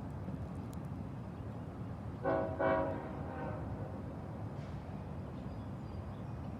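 Freight locomotive air horn sounding two short blasts close together, about two seconds in, over a steady low rumble.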